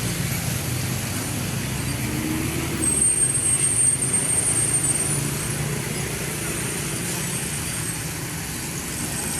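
Steady vehicle running noise, with a thin high-pitched squeal about three seconds in that lasts a couple of seconds.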